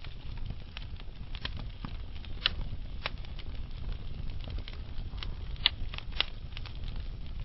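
Wood fire burning in a fireplace, with a low steady rumble and scattered sharp crackles and pops from the burning logs, the loudest pops at about two and a half, five and a half and six seconds in.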